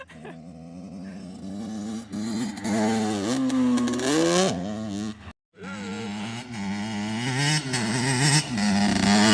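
Dirt bike engine revving, its pitch rising and falling repeatedly as the throttle is worked on the run at a jump. The sound cuts out completely for a moment about five seconds in, then the engine is heard again, building louder toward the end.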